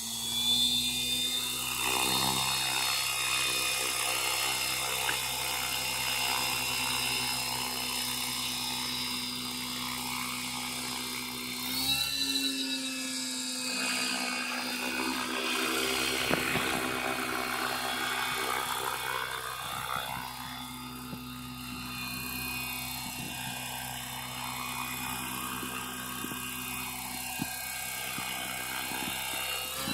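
Align T-Rex 550E Pro DFC electric RC helicopter flying: a steady high electric-motor and gear whine over the rotor sound. Its tones rise briefly about twelve seconds in, then sweep up and down as it manoeuvres.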